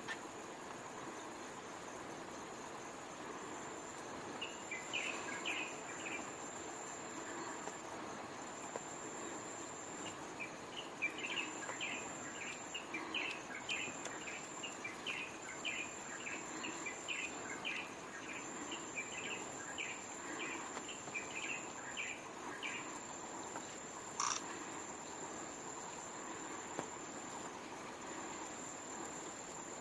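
A bird calling a long series of short, clipped, falling notes, about two a second, with a brief run about five seconds in and a longer one from about ten seconds to twenty-three seconds. Under it is a steady, very high insect buzz that stops and restarts every few seconds, and there is a single sharp click near the end.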